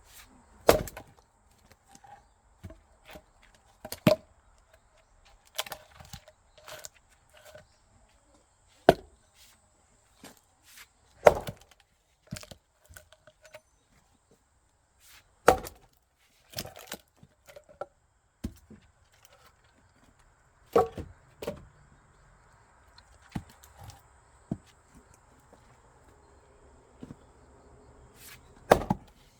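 Axe blows splitting firewood logs: about seven sharp strikes a few seconds apart, with lighter wooden knocks between them, the loudest strike near the end.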